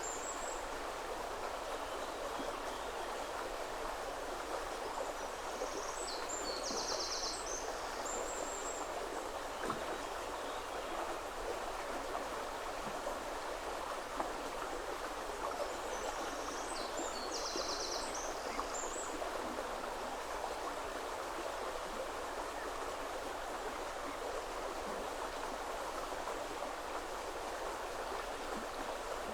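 Woodland river running steadily over stones, a constant rush of water. A small songbird sings a short high phrase twice, about ten seconds apart, over the water.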